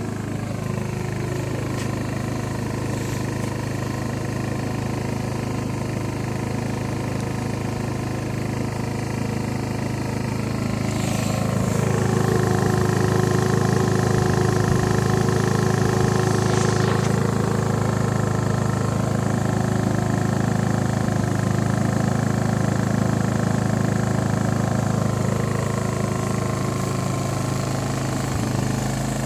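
Hyundai HY2000si inverter generator running steadily. Its engine settles lower in pitch in the first second, then speeds up about eleven seconds in and runs louder at the higher speed.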